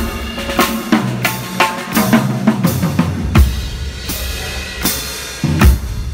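Drum kit playing a slow groove of bass drum and snare, with the hi-hat splashed open by the foot so that it rings out between the closed chicks.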